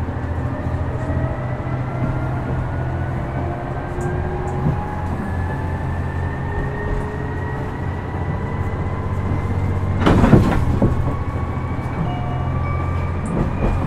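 Interior running sound of a KiHa 126 diesel railcar: a steady low engine drone with whining tones that rise slowly as the train gathers speed. About ten seconds in, a short loud clatter of the wheels over a rail joint or set of points.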